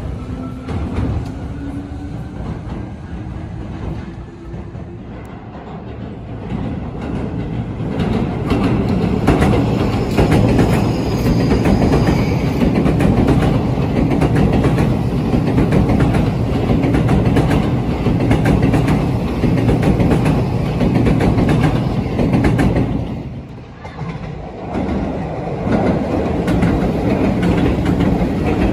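Seibu Shinjuku Line electric commuter trains. In the first few seconds a rising motor whine is heard as a train gathers speed. Then a train runs close past with wheels rumbling and clattering over the rails. After a brief lull near the end, another train passes.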